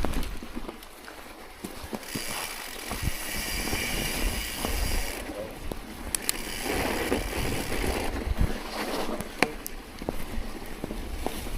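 Wind rumbling on the microphone during a ride through snow, with scattered clicks and knocks and a stretch of hiss from about two to five seconds in.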